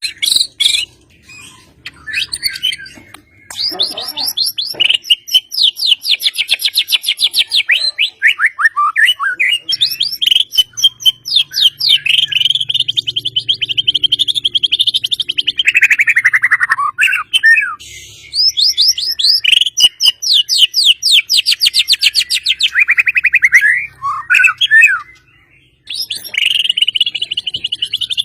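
White-rumped shama (murai batu) singing long runs of rapid trills and rattling 'tembakan' phrases, some sweeping down in pitch, broken by a few short pauses.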